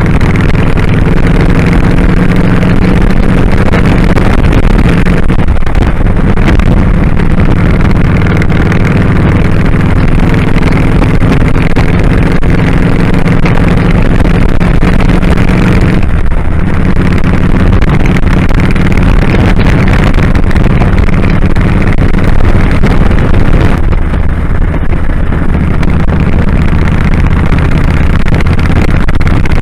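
2001 Kawasaki Drifter 1500's V-twin engine running under way. The note dips and shifts briefly about five, sixteen and twenty-four seconds in.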